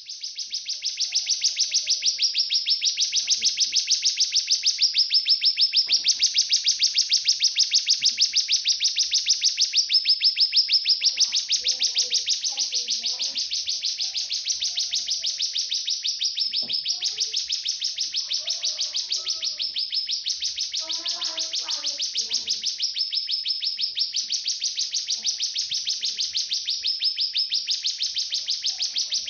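Cigun calling: a continuous, very fast-pulsing high buzz that swells and eases slightly every couple of seconds, with faint lower chirps in the middle.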